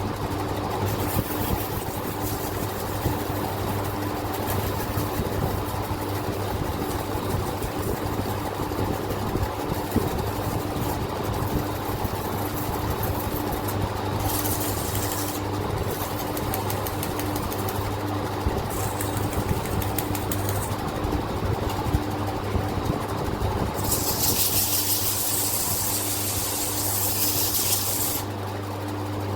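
Steady machine hum with a constant low drone and light ticking, joined near the end by a few seconds of hissing, scratchy noise.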